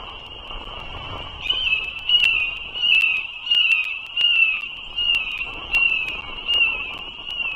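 Bald eagles calling at the nest: a regular series of short, high calls, each falling slightly in pitch, a little more than one a second, starting about a second and a half in. A steady high-pitched background drone runs underneath.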